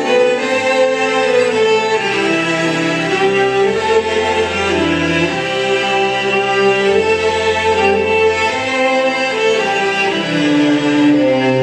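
Fiddle playing a Celtic melody over a string ensemble, with low bass notes held for about two seconds each beneath sustained string chords.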